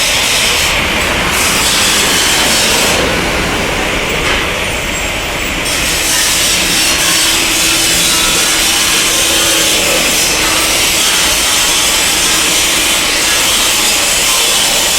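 Loud, steady rasping roar of an Airbus A330's jet engines at takeoff power.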